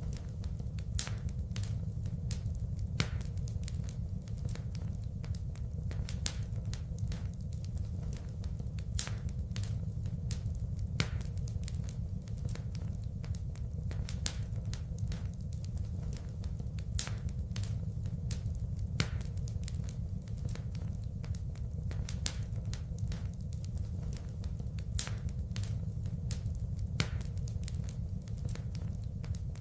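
Wood fire burning in a fireplace, crackling steadily: frequent sharp pops and snaps over a low, steady rumble of the flames.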